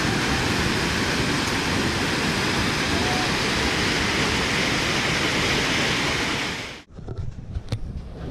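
Steady rush of a flooded, overflowing river. It cuts off suddenly near the end, leaving a much quieter stretch with a faint low rumble and a single click.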